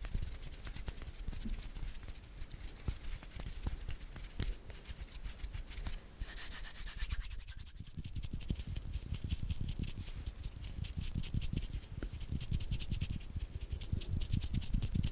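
Bare hands rubbing together, a dense, rapid dry friction of skin on skin. About six seconds in it breaks off briefly and comes back heavier and lower.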